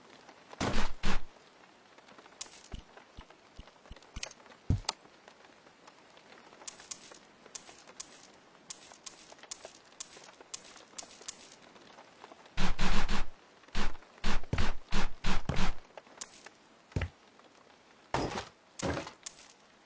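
Handwork sounds of objects being knocked and set down: a few scattered knocks, then a run of light clinks, then a cluster of heavy thuds about two-thirds of the way through.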